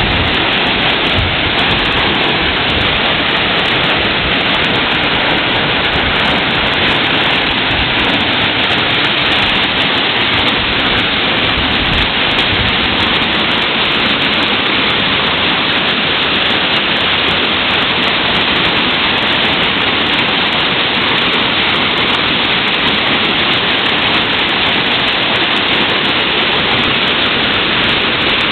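Loud, steady rush of a large waterfall pouring down close by.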